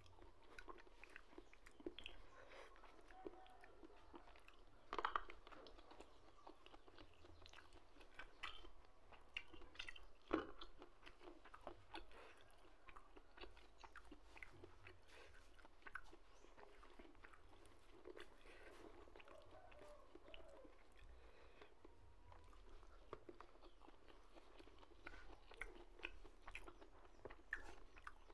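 Faint close-up chewing and mouth smacks of a person eating by hand, with many small soft clicks; a few are louder, about five and ten seconds in.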